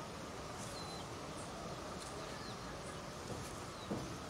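Quiet outdoor background with several faint, brief bird chirps scattered through it, and a soft knock about four seconds in.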